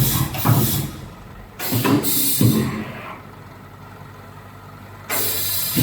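Automatic fan-guard welding machine working through its cycle: loud bursts of mechanical and air noise in the first two and a half seconds and again near the end, with a steady low hum in the quieter pause between.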